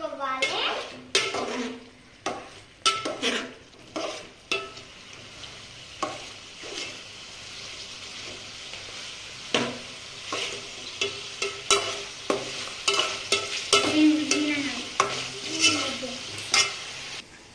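Chicken pieces frying in oil in a steel pan with a steady sizzle, while a metal spoon stirs them, scraping and clinking sharply against the pan many times.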